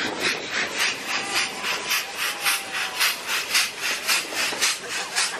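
Narrow-gauge steam locomotive chuffing steadily at about five exhaust beats a second, an even rhythm of hissing puffs as the engine works under steam.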